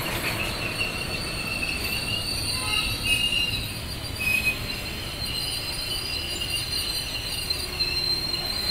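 Passenger train coaches rolling past along a station platform: a steady rumble of wheels on track, with a high wheel squeal that comes and goes several times.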